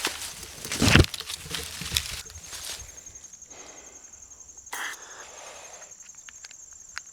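Footsteps crunching through woodland brush, with a heavy step about a second in. A high, steady, rapidly pulsing insect call then comes in after about two seconds.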